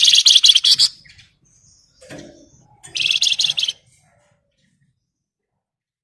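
Flamboyan songbird giving its fast, dense 'ngebren' trill: two rapid rattling bursts of high notes, each under a second long, about three seconds apart.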